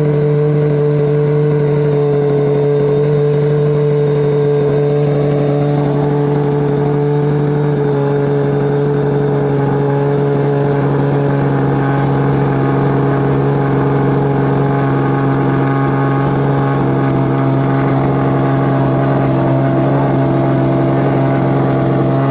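A race car's engine held at steady, fairly high revs for a long stretch, its pitch drifting very slightly lower, with no gear changes or blips.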